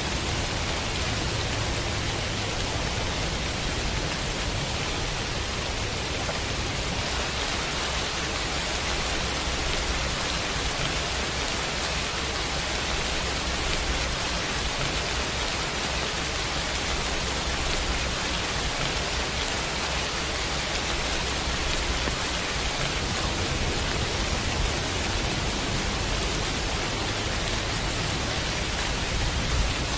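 Steady rain, an even hiss of falling drops with no break, with a low rumble underneath that is stronger near the start and again in the last several seconds.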